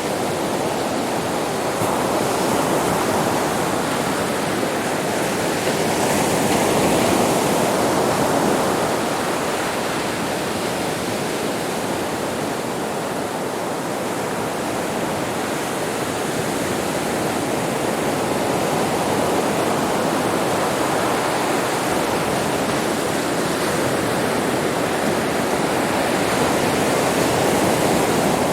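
Sea waves breaking and washing on a beach: a continuous surf wash that swells slowly and eases off, with a stronger surge near the start and another near the end.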